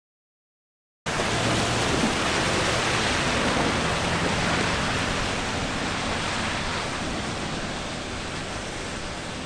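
Steady hiss of heavy rain, starting abruptly about a second in and easing slightly in the second half.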